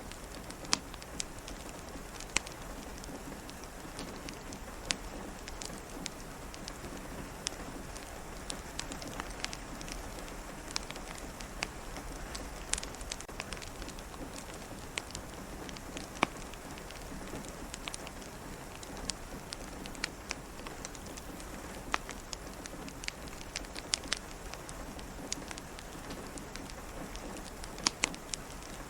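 Steady rain, with sharp irregular pops and crackles from a wood fire every second or two.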